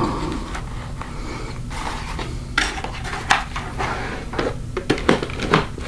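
Light clicks and knocks of hard plastic being handled as eyeglasses are worked on under a modular motorcycle helmet, most of them in the second half, over a steady low hum.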